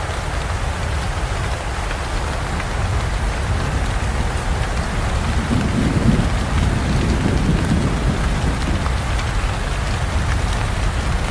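Steady heavy rain pouring on a forest, with a low roll of thunder swelling up about halfway through and fading again.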